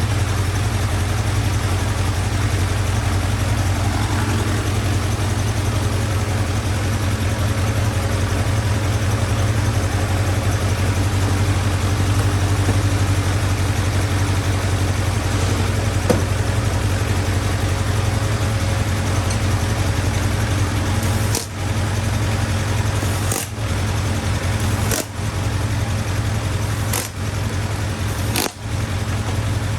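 Motorcycle engine idling steadily, with several brief dips in level in the last third. The owner suspects a vacuum leak is making the idle hang.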